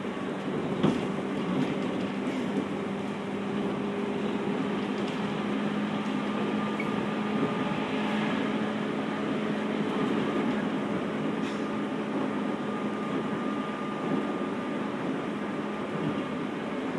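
Onboard running sound of a JR 211 series electric train, heard inside motor car MoHa 210 while under way: a steady rumble of wheels on rail with a steady low hum. A few sharp clicks come in the first few seconds.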